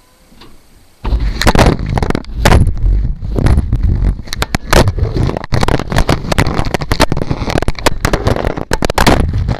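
Clothes dryer starting up about a second in, with a small camera tumbling inside the drum: a loud, dense run of knocks and clatter against the drum over a low rumble.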